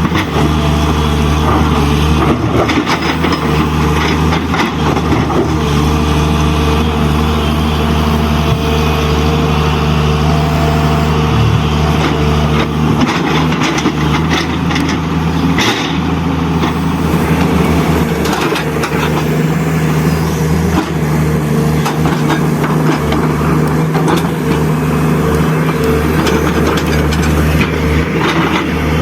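Steady truck-type engine sound running without a break, with a brief sharp noise about halfway through.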